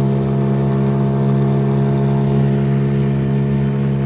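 Outboard motor of a small fishing boat running at a steady cruising speed, holding one even pitch.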